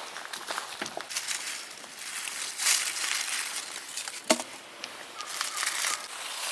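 Firewood being worked by hand: wood rustling and scraping, with scattered small clicks and one sharp wooden knock about four seconds in.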